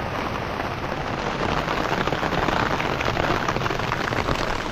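Rain falling steadily, with many separate drop hits on a surface; it grows a little louder around the middle.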